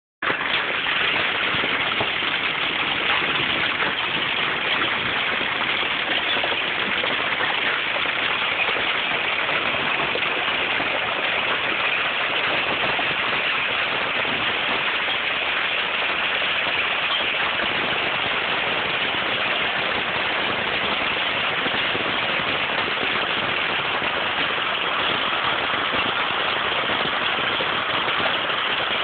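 Hail and rain falling hard in a steady downpour, a dense hiss packed with many fast little ticks of stones striking surfaces, unchanging throughout.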